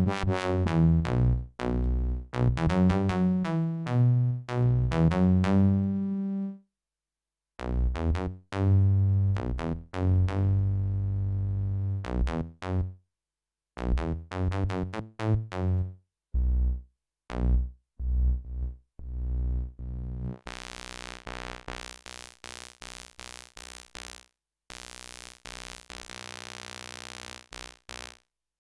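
Sequential OB-6 analog synthesizer playing short bass-register notes with its distortion engaged, the patch being tweaked as it plays. About twenty seconds in the tone turns bright and noisy, sounded as quick repeated stabs.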